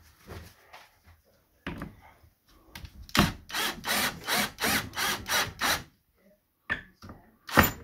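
A hand tool worked in quick, even strokes, about three a second, for some three seconds, then a sharp click near the end.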